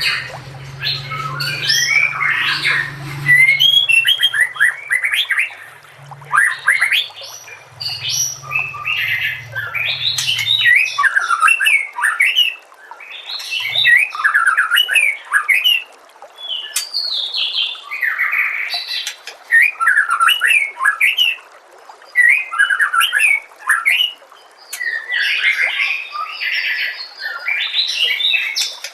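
White-rumped shama (murai batu) singing in repeated phrases of fast whistles and harsher, rattly notes, each phrase a second or few long with short pauses between. A low hum lies under the first ten seconds or so.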